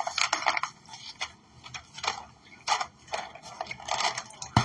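Lid being fitted onto a food container: a series of short irregular clicks and scrapes, with a sharper knock near the end.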